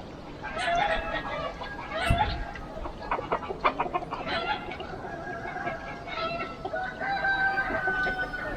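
Free-range chickens clucking in a series of short calls, with a sharp knock about two seconds in and a longer drawn-out call near the end.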